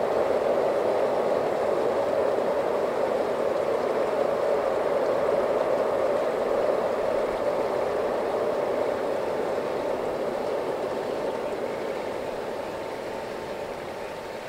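Steady rumble of a freight train running away into a tunnel, sounding from the tunnel portal, that fades gradually over the last third.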